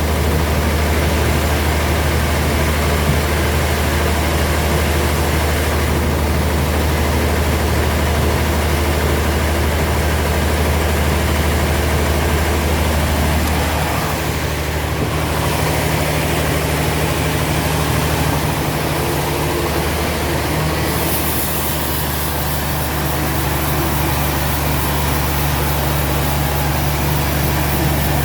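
Heavy sawmill machinery running: a steady, loud, low engine drone under a broad noisy wash. The drone's tone shifts about halfway through, and the noise grows brighter in the last third.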